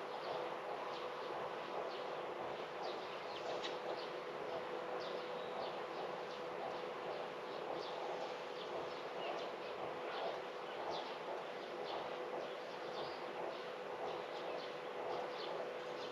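Small birds chirping, short high calls scattered throughout over a steady background hum with one constant tone.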